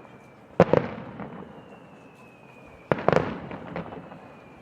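Aerial fireworks shells bursting twice, a little over two seconds apart, each a sharp bang with a few quick reports and a short fading crackle.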